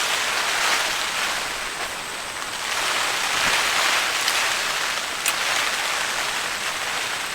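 Heavy rain pouring steadily in storm wind, swelling louder a few seconds in, with a couple of sharp ticks of drops hitting a surface.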